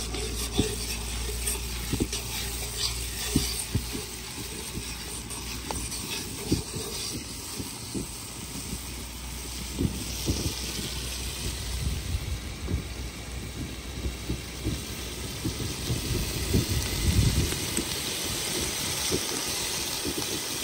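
Curry masala sizzling in hot oil in a pot: a steady hiss with many small knocks of a spoon as it is stirred.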